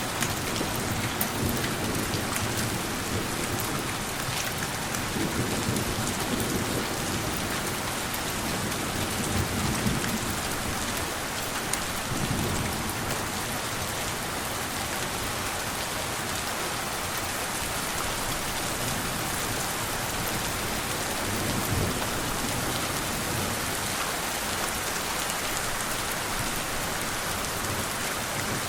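Steady rain falling, with gentle thunder rumbling low several times, mostly in the first half and once more near the end.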